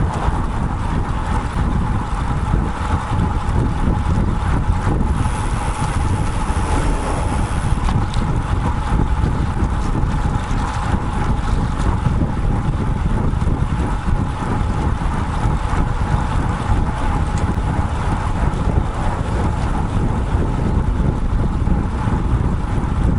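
Wind buffeting the microphone of a bike-mounted action camera while a road bike is ridden, a steady low rumble with a thin steady tone running through it. A brief brighter hiss comes about five seconds in.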